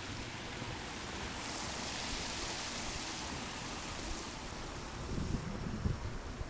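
Wind: an even rushing hiss that swells in the middle, then gusts buffeting the microphone with low thumps near the end.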